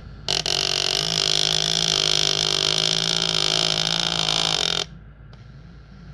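Direto's motor grinding loudly for about four and a half seconds, then cutting off abruptly: the motor is jamming and getting stuck.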